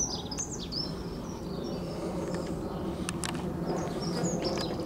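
Small birds chirping in short, sliding calls over a steady low background rumble, with a few sharp clicks.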